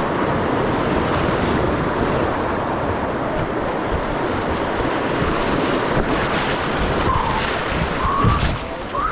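Rushing whitewater of a river rapid around a kayak, a steady loud wash of water with wind noise on the microphone and a couple of dull knocks near the end.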